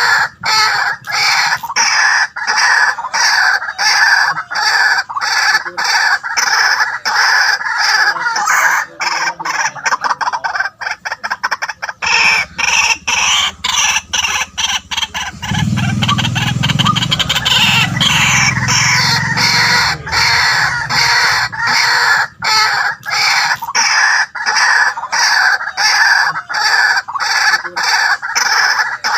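White-breasted waterhen calling: a loud, unbroken run of rapid, harsh repeated notes, a few to the second. A deeper sound joins underneath for several seconds midway.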